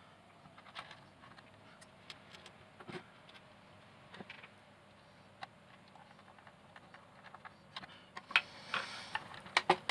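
Scattered light clicks and taps of small parts being handled on a workbench, with a few sharper clicks in the last two seconds.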